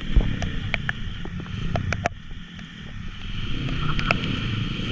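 Small motorcycle engine running, with wind buffeting on the microphone and scattered sharp clicks and knocks. The engine sound drops a little past two seconds in, then builds again.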